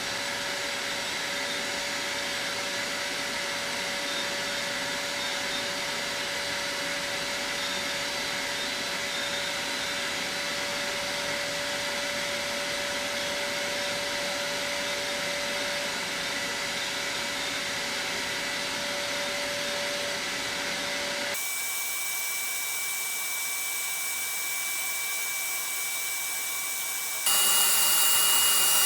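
Vacuum cleaner running with a steady motor whine while soot is cleaned out of a pellet stove's heat-exchanger tubes. About three-quarters of the way through, the sound changes abruptly to a thinner, higher whine. Near the end it gets louder, with a still higher whine.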